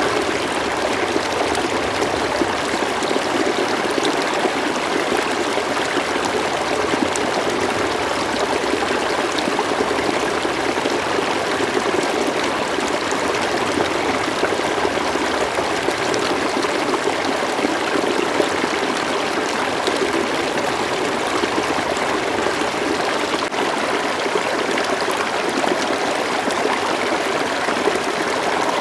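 River water flowing and trickling: a steady, even rush of running water with no breaks.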